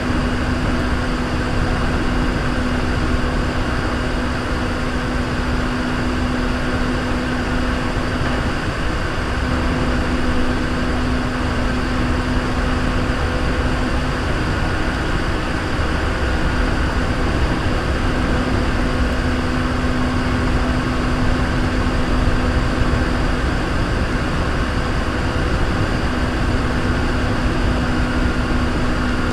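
Running sound inside a Hankyu 3300 series electric train car cruising at steady speed: a constant low rumble of wheels on rail with a steady hum from the running gear.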